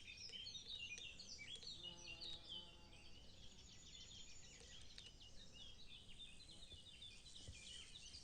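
A faint chorus of several songbirds, overlapping short chirps, whistles and trills going on steadily.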